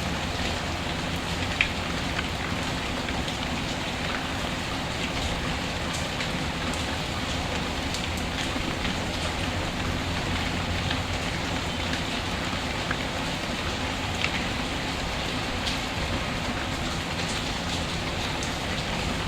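Steady rain falling, an even hiss, with a few sharp pops of a crackling wood fire, the loudest about one and a half seconds in.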